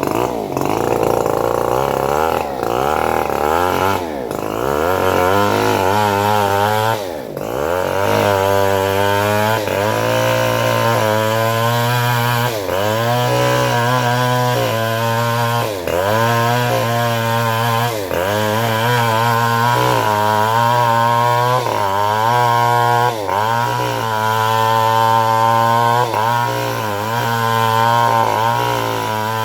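Engine-driven homemade bandsaw mill running and cutting through a log. The engine note sags and recovers over and over, about once a second, as the blade takes the load.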